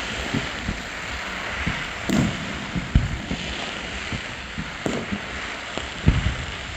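Fireworks going off at a distance, with a few separate bangs about two, three, five and six seconds in, over a steady background hubbub.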